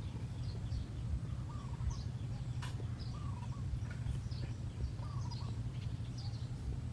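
Small birds chirping, short calls repeating about once a second, over a steady low rumble, with a few faint clicks.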